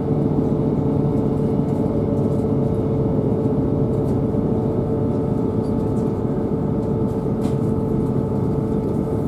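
Cabin noise inside a moving diesel passenger train: a steady rumble of running gear with an unchanging engine and transmission drone and a constant mid-pitched whine.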